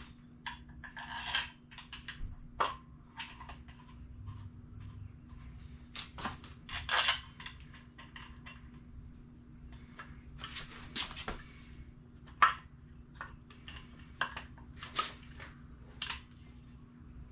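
Metal engine parts and hand tools being handled: irregular clinks, knocks and clatters, a dozen or so, the loudest a sharp knock about twelve seconds in, over a steady low hum.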